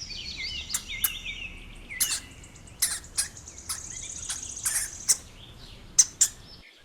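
A hamster squeaking: quick, high-pitched chirping squeaks with scattered sharp clicks. The sound cuts off suddenly just before the end.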